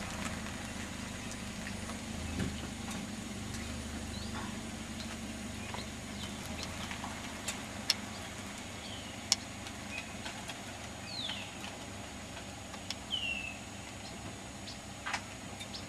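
A car engine's low rumble fades away over the first few seconds, leaving quiet outdoor ambience with a few short bird chirps and sharp clicks.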